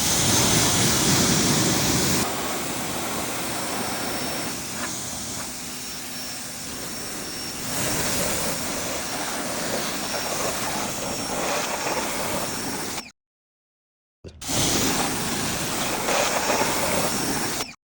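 Ryobi pressure washer jet spraying water onto a muddy motorcycle, a steady hiss of spray whose tone shifts as the jet moves over different parts of the bike. The sound cuts off abruptly to silence for about a second, twice in the second half.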